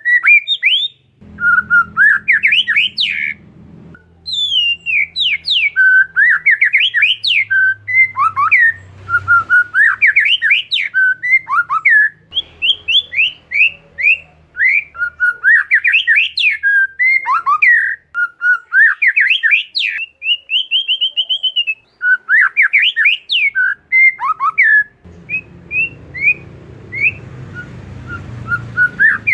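Oriental magpie-robin (kacer) singing non-stop in fast runs of sharp, sliding whistled notes and chatter, with one longer held whistle about twenty seconds in. A low hum sits underneath at times.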